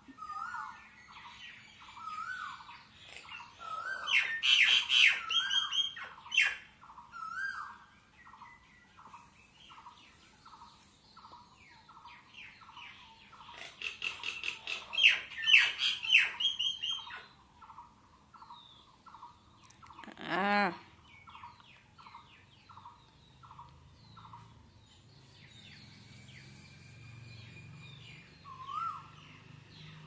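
Birds calling: a short note repeated about twice a second, broken twice by spells of loud, rapid chirping. About twenty seconds in comes a single louder, drawn-out call, and after that the calls thin out.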